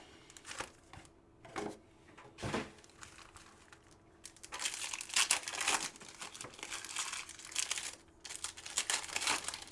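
Trading card pack wrappers being torn open and crinkled, starting about four and a half seconds in after a few light taps.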